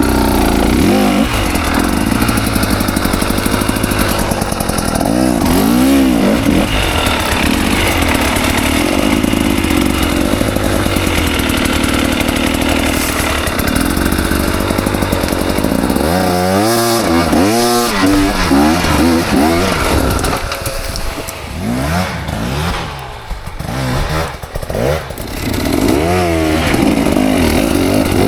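KTM 300 XC two-stroke dirt bike engine running and revving, its pitch climbing and dropping with repeated throttle bursts. The throttle is choppier and a little quieter for a few seconds in the last third.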